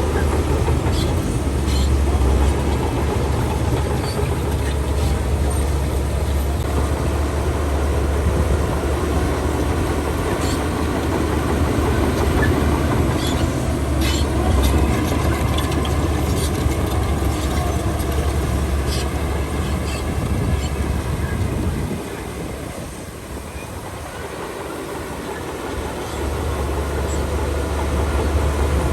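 Crawler bulldozer's diesel engine running under load with a steady low drone, with scattered metallic clanks of its steel tracks. The engine drops off for a few seconds past the middle, then picks up again.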